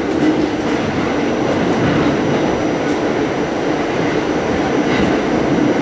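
Staten Island Railway train running at speed, heard from inside the car: a steady rumble of wheels on rail with a few faint clicks.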